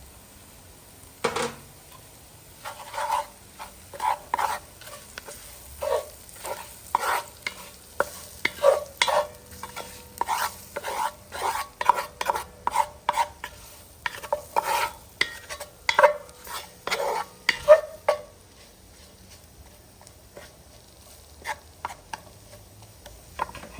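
Stirring and scraping in a hot pot of onions, pimento peppers and curry frying in oil, about one to two strokes a second over a faint sizzle. The stirring stops about eighteen seconds in, leaving a few light knocks.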